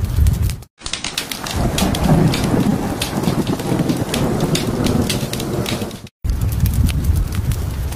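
Steady rain with rolling thunder for about five seconds, spliced in between stretches of crackling fireplace fire. The sound cuts out for an instant at each splice, just under a second in and again about six seconds in.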